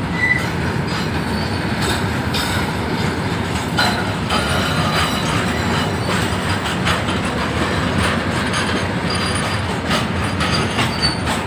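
Ballast-loaded freight train of hopper wagons rolling past at speed: a steady rumble of wheels on rail, with a few clacks over rail joints. Brief faint high wheel squeals come near the start and again near the end.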